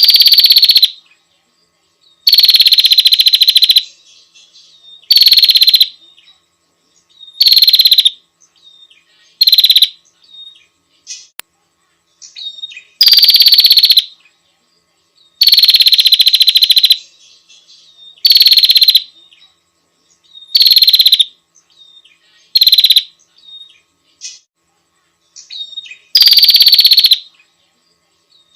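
Female prenjak (prinia) giving her rapid, rattling call to a male, in bursts of half a second to a second and a half, each opening with a short downward slur, repeated about every two to three seconds, with faint short notes in the gaps.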